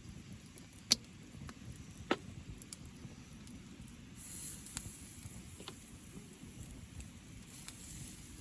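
Two sharp clicks a little over a second apart, then a few fainter ticks, over a steady low rumble of outdoor background noise.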